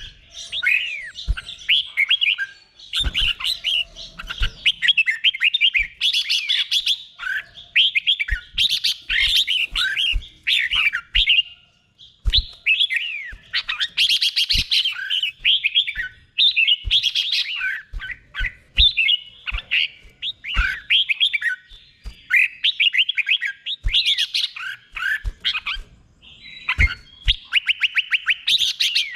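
Red-whiskered bulbul singing its 'doubled' competition song: quick phrases of gliding whistled notes, repeated with short pauses, with a fast, even run of notes near the end. Brief low taps are scattered through it.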